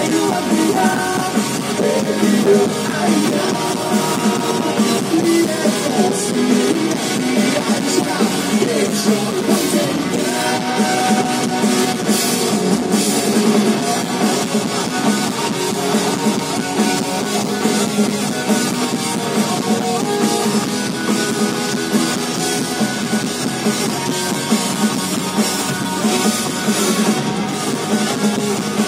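Live punk rock band playing loud through a concert PA: drum kit and electric guitars going steadily, with little bass.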